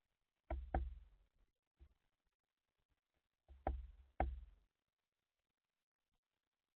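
Sharp knocks against the bird feeder, in two pairs a quarter second apart, the second pair about three seconds after the first, with a few faint taps between.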